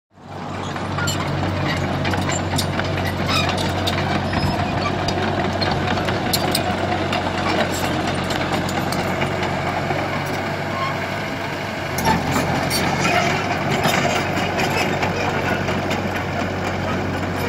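Komatsu PC75 hydraulic excavator's diesel engine running steadily under working load, with scattered clicks and knocks throughout, and the engine picking up slightly about twelve seconds in.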